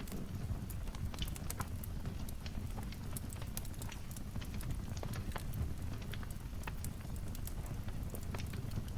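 Wood fire crackling in a fireplace: frequent sharp irregular pops and snaps over a steady low rumble.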